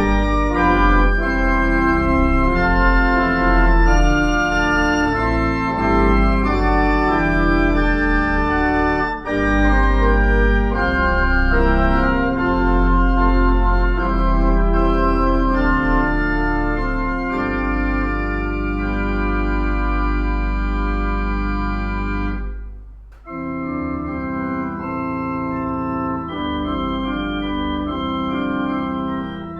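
Church organ playing held chords over a deep bass line. The music breaks off briefly about 23 seconds in, then resumes more softly.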